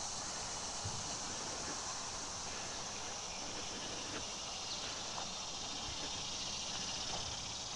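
Steady, high-pitched chorus of insects trilling continuously.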